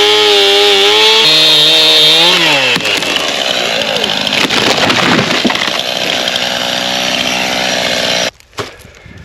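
Two-stroke chainsaw cutting a dead tree at full throttle, then easing off to idle about three seconds in. This is followed by several seconds of cracking and crashing as the tree goes over. The sound drops off suddenly near the end.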